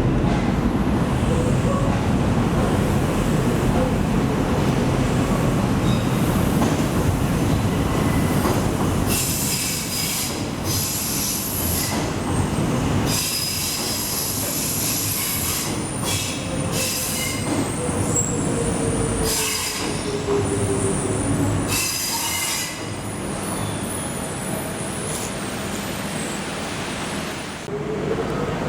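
Docklands Light Railway train running: a heavy rumble at first, then the wheels squeal in repeated high screeches for much of the rest. Partway through, a whine falls steadily in pitch.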